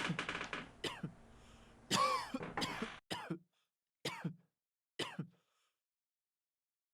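A person coughing: a loud cough about two seconds in, then three short coughs about a second apart, before it falls quiet.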